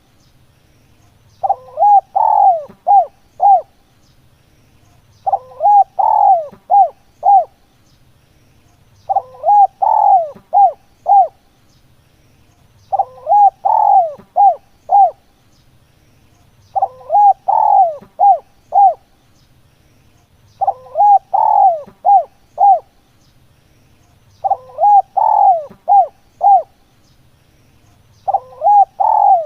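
Spotted dove cooing: a phrase of five or six coos, the first ones fuller and the last ones short and clipped, repeated about every four seconds.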